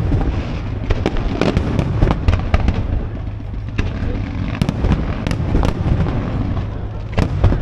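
Fireworks display: a steady run of sharp bangs and crackles from bursting aerial shells, roughly one or two every second, over a constant low rumble.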